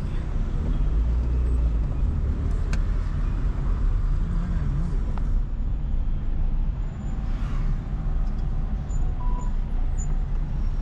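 Car driving along a city street: a steady low rumble of engine and road noise, with a single sharp click a little under three seconds in.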